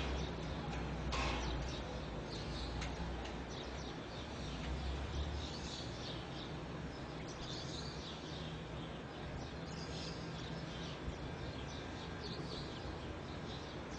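Birds chirping in many short, scattered calls over a steady low rumble, with a soft knock or two near the start.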